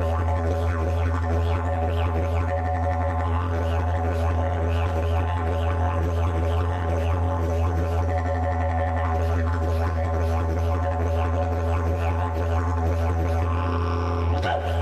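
Didgeridoo music: a continuous low drone with shifting, pulsing overtones above it.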